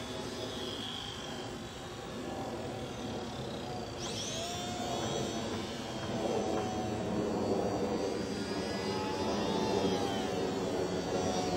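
Electric motor and propeller of an Extra 330L radio-controlled 3D aerobatic plane in flight, whining and rising and falling in pitch as it manoeuvres, growing louder in the second half.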